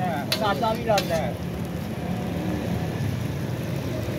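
A voice for about the first second, then a steady hiss and low hum as parathas fry on a large flat tawa.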